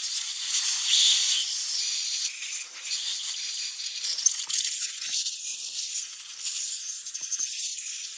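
Hissing and scrubbing as a metal engine surface is cleaned with aerosol brake cleaner and a small brush; the noise is fairly steady and high-pitched, rising and falling in level.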